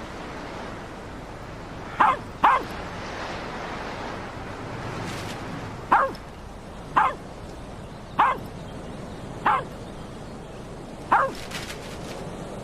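A dog barking in short single barks, seven in all, two in quick succession about two seconds in and then one every second or so, over a steady rush of wind.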